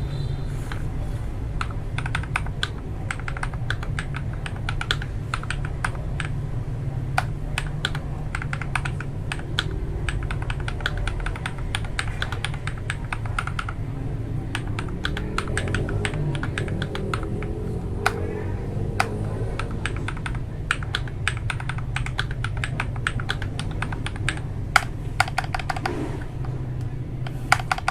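Typing on a mechanical keyboard fitted with lubed Akko Matcha Green switches and Cherry-profile keycaps: a steady run of key presses with a deep, thocky sound, ending in a fast burst of keystrokes, over a steady low hum.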